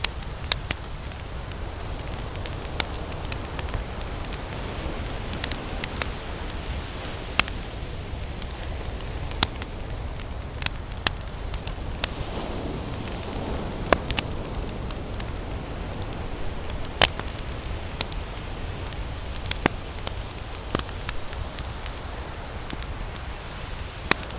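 Campfire crackling, with irregular sharp pops of burning wood every second or two over a steady low rush.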